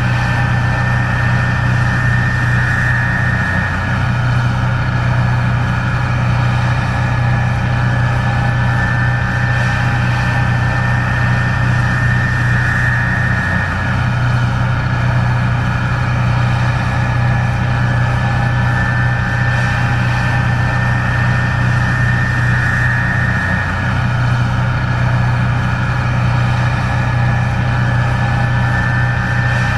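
Case IH 1660 Axial-Flow combine running steadily under harvesting load: a loud, constant diesel engine hum with a steady high-pitched whine over it. The hum dips briefly about every ten seconds.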